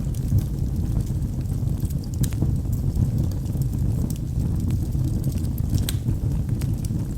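Logs burning in a fireplace: a steady low rumble of flames with irregular crackles and small pops from the wood, a sharper pop about six seconds in.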